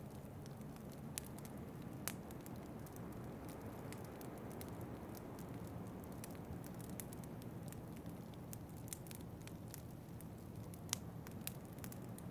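Wood fire in a fireplace crackling, with irregular sharp pops, the loudest about two seconds in and near the end, over a steady low rush of wind.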